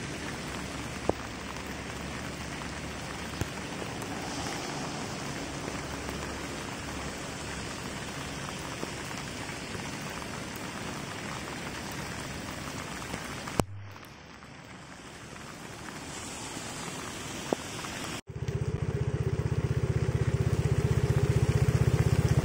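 Heavy rain falling on a flooded road and waterlogged rice paddy: a steady hiss of drops hitting water, with a few sharp clicks. About 14 seconds in it cuts to a quieter stretch of rain, and about 18 seconds in a louder steady low hum takes over.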